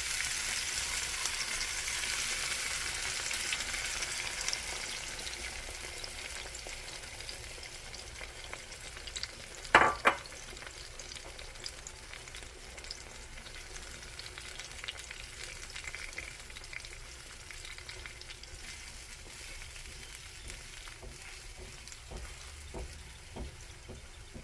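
Food frying in oil in a pan, sizzling; the sizzle is loudest at first and dies down over the first several seconds. A short, loud sound breaks in about ten seconds in.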